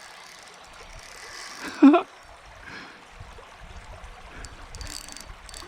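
River water trickling and gurgling around a kayak. A short vocal exclamation falls in pitch about two seconds in.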